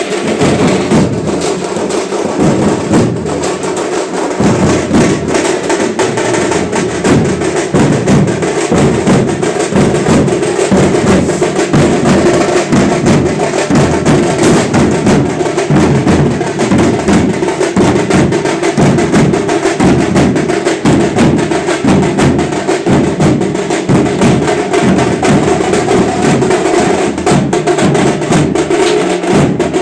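Loud, fast drumming in a rapid, unbroken rhythm, with many sharp strokes a second.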